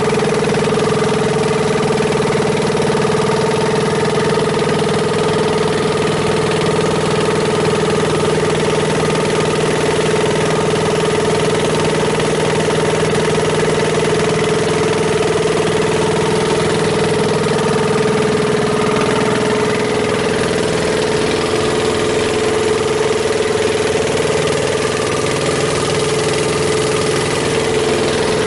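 Longtail boat engine running steadily at an even speed: a loud, unchanging drone with a strong steady hum, over an even hiss.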